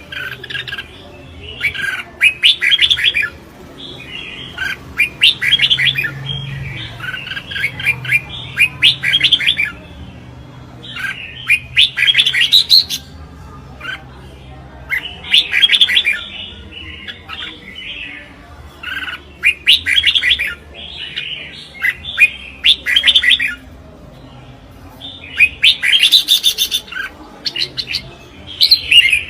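Red-whiskered bulbul singing its contest song: short, loud warbled phrases repeated every second or two.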